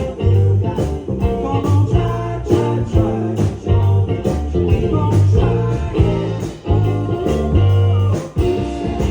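Live band playing a rock song at full volume, with a singing voice over guitar, bass and a steady drum beat.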